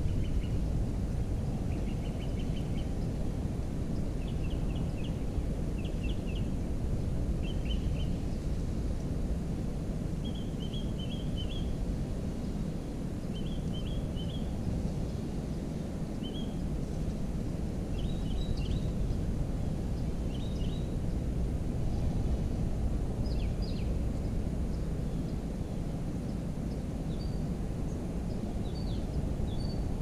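Small bird calling in short clusters of quick high chirps every second or two, over a steady low outdoor rumble.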